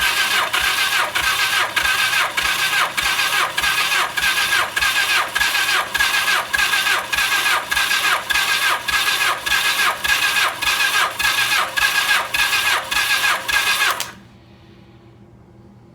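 Starter motor cranking a 1982 Suzuki GS1100's air-cooled inline four-cylinder engine for a compression test, with an even pulsing of about two beats a second. The engine does not fire, and the cranking cuts off sharply about 14 seconds in.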